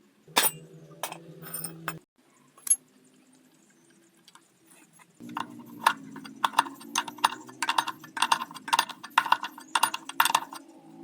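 Metal clinking and tapping over the steady hum of a small motor: a few clicks near the start, then from about halfway a quick run of sharp clinks, two or three a second.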